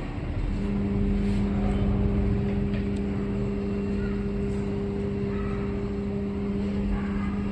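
A steady mechanical hum that sets in about half a second in and holds one even pitch, over a continuous low rumble.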